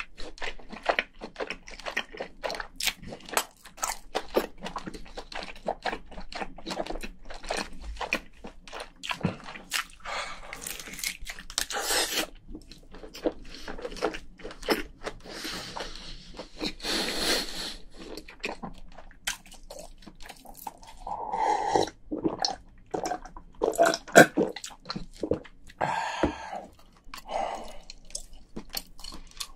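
Close-miked chewing of cooked lobster meat: a steady run of wet smacking and crunching clicks, with a few longer slurping, smacking noises in the middle and some short mouth sounds in the second half.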